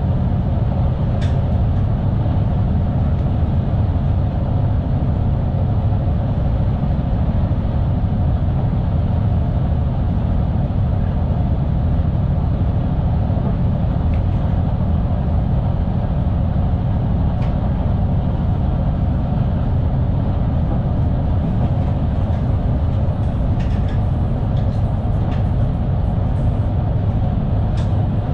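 NS Sprinter Nieuwe Generatie (SNG) electric train running steadily at speed, heard from inside the driver's cab: a low rumble with a steady hum. A few faint clicks come near the end.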